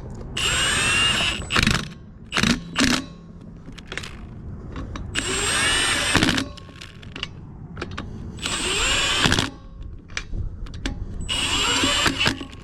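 Impact wrench spinning lug nuts onto wheel studs in four runs of about a second each, each run a rising whine, with short clicks between them.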